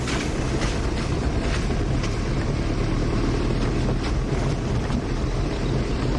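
A vehicle engine running steadily while driving, with a loud, continuous rumble and scattered rattles and knocks from the moving vehicle.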